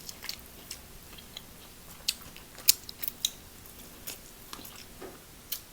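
Seafood-boil crab-leg shells being cracked and picked at while eating: scattered sharp cracks and clicks, a few louder snaps about two to three seconds in and near the end.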